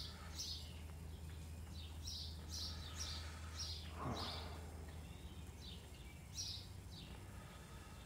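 A small bird chirping again and again: short, high notes, each falling in pitch. A low steady hum runs underneath and stops about five seconds in.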